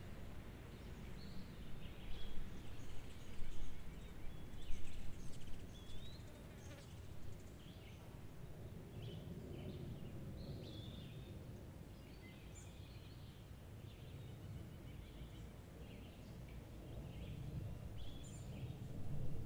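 Several birds chirping and calling in short, scattered notes, busiest in the first several seconds, over a steady low background rumble.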